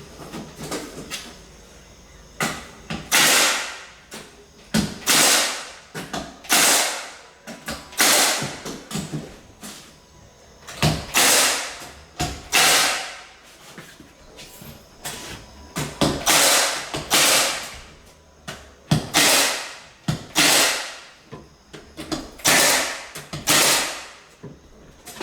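Repeated sharp strikes of a tool fastening or seating hardwood floorboards, about one a second, starting a couple of seconds in, with a few short pauses.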